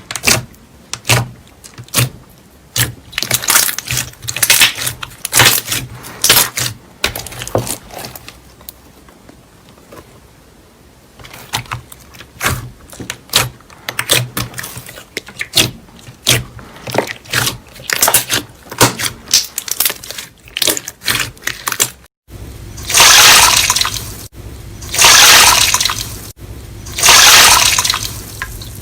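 Slime being squeezed and poked: a run of sharp wet clicks and pops, then, after a cut about three quarters of the way through, three long, loud wet squelching hisses about two seconds apart.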